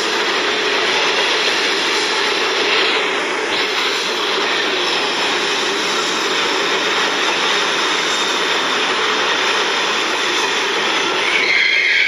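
Steady, loud rushing noise of a train running, with a high metallic squeal of wheels starting near the end.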